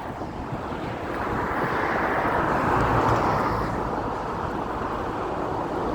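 A road vehicle passing: a rushing tyre and road noise that swells to its loudest about halfway through and then fades, with wind buffeting the microphone.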